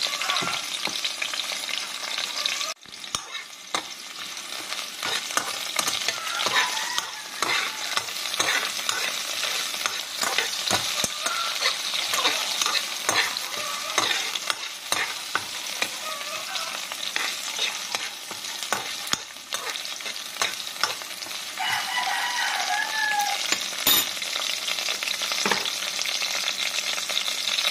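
Sliced garlic, shallots, ginger, lemongrass and chillies sizzling in oil in an aluminium pot, with a metal spoon scraping and clicking against the pan as they are stirred.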